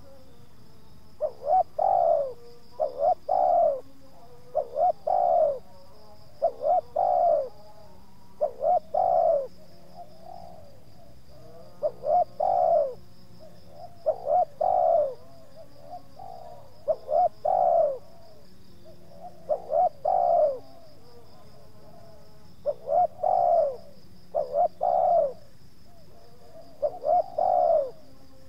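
Spotted dove cooing over and over, each phrase two short notes and a longer one, about one phrase every two seconds. A steady high trill of insects runs underneath.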